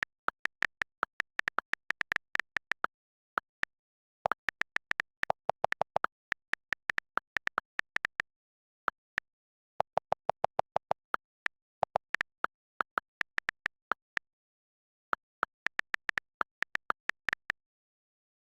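Computer keyboard typing: runs of quick, irregular key clicks broken by short pauses.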